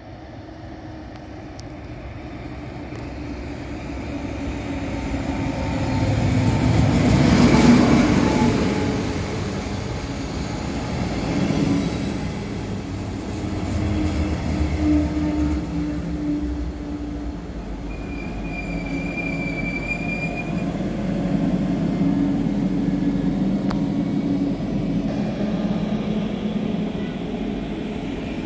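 A train passing, its rumble swelling to a peak about seven or eight seconds in and then running on steadily. About two-thirds of the way through there is a brief high-pitched tone lasting a couple of seconds.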